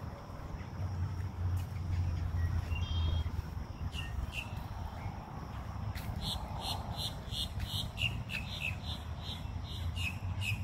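A bird calling a short, high note over and over, about three times a second, starting about four seconds in. A low rumble runs underneath.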